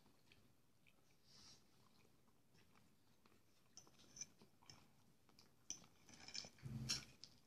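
Faint chewing of a mouthful, with light clicks of a metal fork against a glass plate from about halfway in, and a louder scrape and clatter of the fork in the plate near the end.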